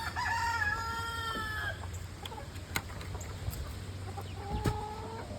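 Chickens clucking and calling in a coop, with one long drawn-out call in the first second and a half and a shorter call near the end.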